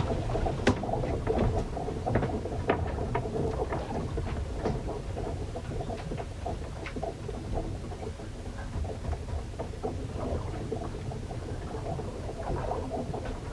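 Sea storm heard aboard a ship: a steady low rumble of wind and water with irregular small ticks and patters of rain and spray throughout, a little louder in the first second or two.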